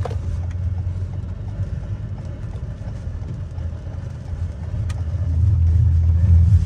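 Low rumble of a 2021 Toyota Camry's engine and tyres as heard inside the cabin while driving, growing louder about five seconds in. There is a single sharp click near the same point.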